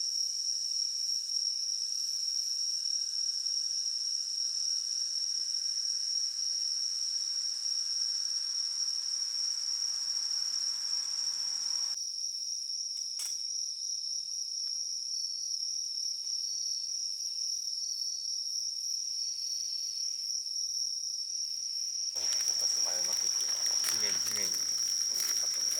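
Night insects singing, a steady high-pitched trill that does not break. In the last few seconds people's voices and a few sharp clicks come in over it.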